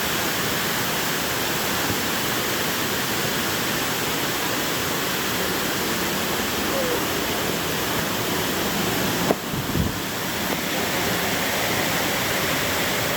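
Steady rushing of a jungle waterfall and its cascading stream, with a brief knock about nine seconds in.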